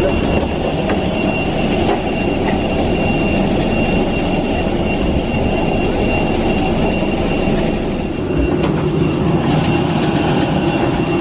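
Steady low rumble of a vehicle in motion, with a faint steady high-pitched tone running through it.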